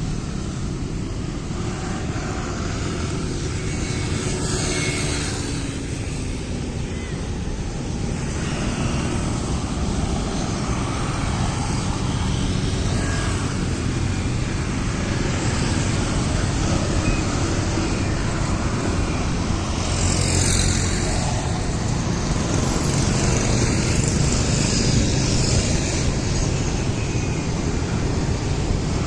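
Steady low rumble of outdoor background noise, like traffic or wind, with no distinct single event standing out.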